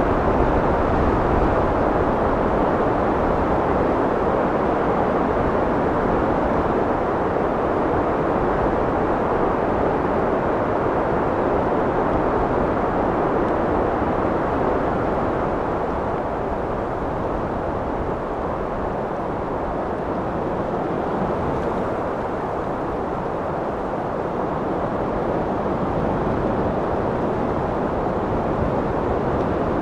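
Steady wind blowing, an even rushing noise that eases a little about halfway through and builds again near the end.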